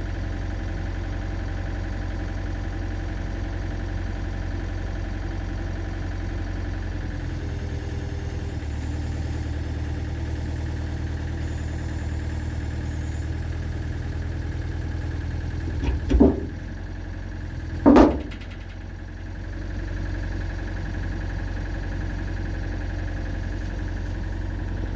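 Excavator engine idling, then working harder under hydraulic load as it pulls a chain on a pickup's dented cab; about 16 and 18 seconds in come two loud bangs as the sheet metal gives and the dent pops out, after which the engine drops back to idle.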